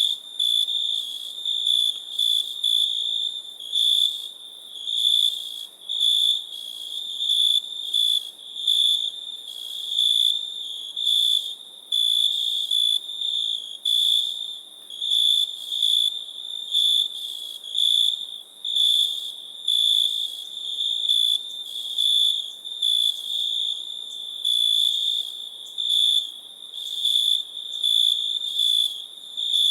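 Crickets chirping steadily in one high-pitched trill that swells louder about once a second.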